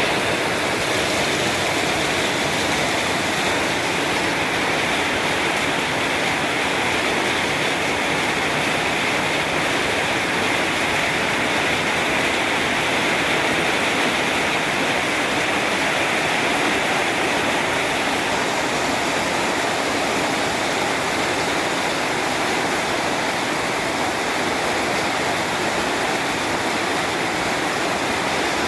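Very heavy rain pouring down steadily, a dense even hiss with no letup.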